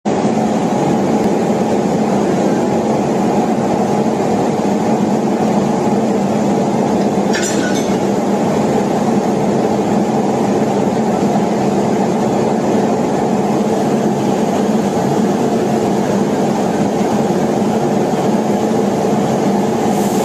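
Diesel-electric multiple unit (DEMU) train running along the track, heard on board: a steady, loud rumble of running and engine noise with a constant low hum. A brief hiss cuts in about seven and a half seconds in.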